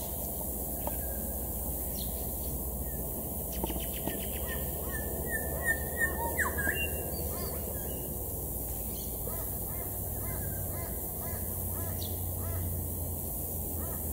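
Grey shrike-thrush singing: a quick trill about four seconds in, then a run of clear whistled notes ending in a falling slur, followed by a string of softer, lower repeated notes. A low steady rumble lies under it.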